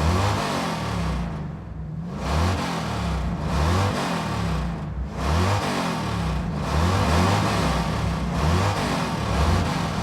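Car engine revving, its pitch climbing and then dropping back again and again every second or two.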